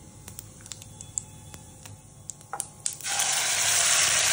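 Fennel seeds roasting in hot oil in a kadhai, with sparse crackling pops, then about three seconds in a sudden loud sizzle as boiled raw-mango pulp is poured into the hot oil.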